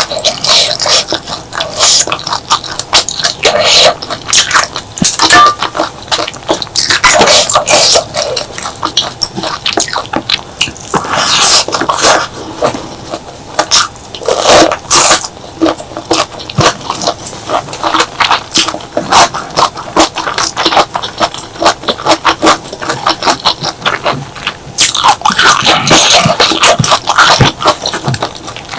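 Close-miked eating of spicy clams in roasted chili paste: rapid wet mouth clicks of chewing and sucking, with louder, longer wet sounds every few seconds.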